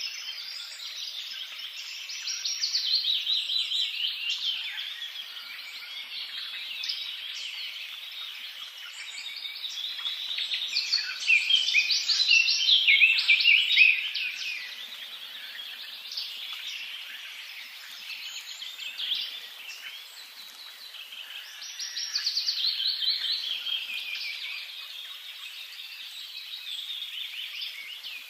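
Birds singing, a dense run of rapid chirps and trills that swells louder in three spells: about three seconds in, around eleven to fourteen seconds in, and around twenty-two to twenty-four seconds in.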